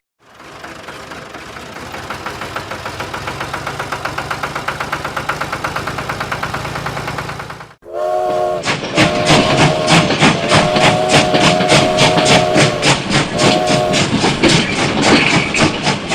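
Steam locomotive chuffing in a fast, even rhythm that grows louder. After a brief break, its chime whistle sounds in several blasts over a quick clatter of wheels.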